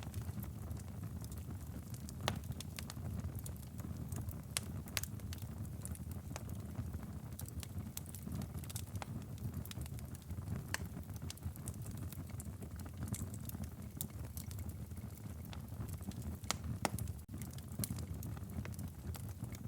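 Wood fire burning in a fireplace: a steady low rumble of flames under irregular, scattered sharp crackles and pops of the burning logs.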